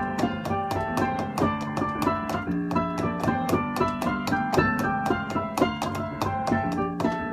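Piano playing a fast, driving instrumental passage, with quick repeated notes and sharp attacks in a steady rhythm.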